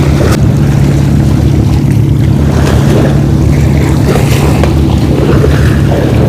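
Steady low drone of a motorboat's engine running close to shore, over the wash of surf and wind on the microphone.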